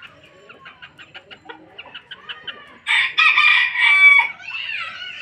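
Polish chickens clucking in a quick run of short, even notes, then a Polish rooster crowing loudly for about a second and a half, starting about three seconds in, and trailing off into a falling call.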